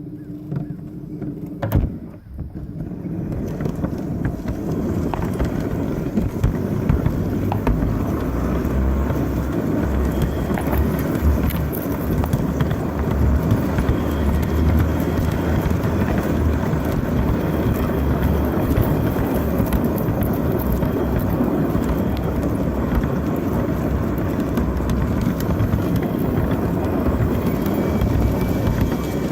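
LGB garden-scale model locomotive running on outdoor track: a steady motor and wheel rumble with many light clicks, starting up about three seconds in and then running evenly.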